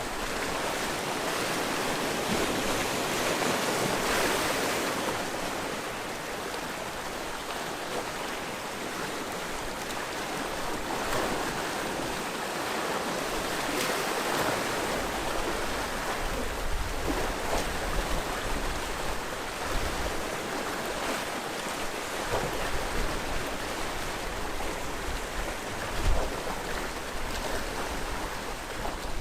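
Sea waves washing in and breaking along the shore, a steady surf noise that swells and eases. In the second half a low, gusty rumble joins it, with one short low thump near the end.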